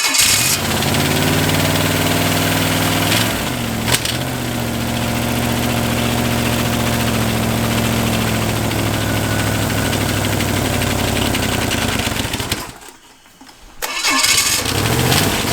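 A 283 small-block Chevy V8 running on only four cylinders, with one cylinder head fitted. It fires up at once and runs steadily at a rough idle, with a sharp pop about four seconds in. It cuts out about three-quarters of the way through and then starts up again near the end.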